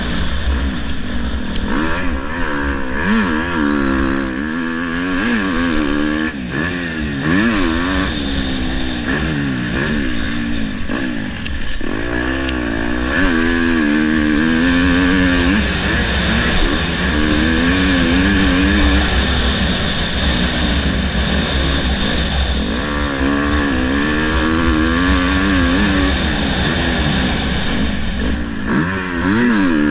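Dirt bike engine revving up and down again and again, its pitch climbing and dropping as it accelerates and shifts.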